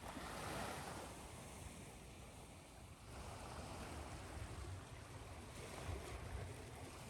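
Ocean surf washing ashore over a steady hiss of white noise. One wave swells right at the start and another builds in the second half.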